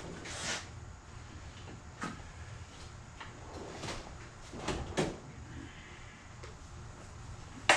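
Hand tools being picked up and set down while someone looks for a screwdriver and wrench: scattered knocks, clinks and rustles, with a sharp click near the end, over a steady low hum.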